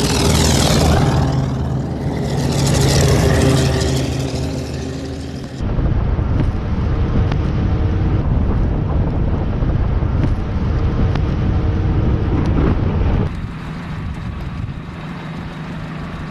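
Heavy 'Blue Bird' amphibious search-and-recovery vehicles running and driving, a deep steady engine sound with tyre and road noise; in the first few seconds the sound swells and fades as a vehicle passes close. The sound changes abruptly twice, at about 6 seconds and near the end.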